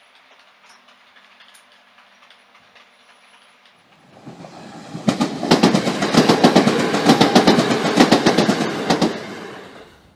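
Model train running past close by, its wheels clicking rapidly over the rail joints. It builds up about four seconds in, is loudest through the middle and fades away near the end.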